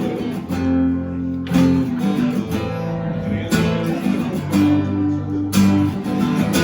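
Song with strummed acoustic guitar chords, changing chord every second or two, between sung lines.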